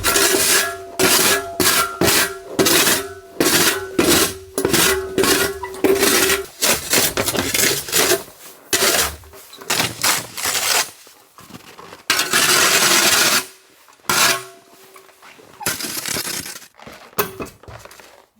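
Snow shovel scraping and scooping fresh snow off steps in quick, repeated strokes, with a steady ringing tone under the first few seconds and one longer scrape about twelve seconds in.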